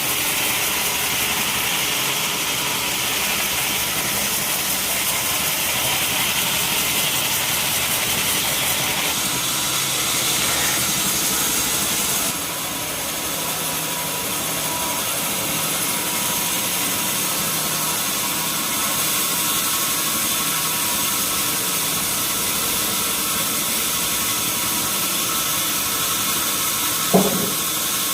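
Sawmill band saw machinery running steadily, a constant mechanical noise with a faint steady whine. A brief sharp sound stands out about a second before the end.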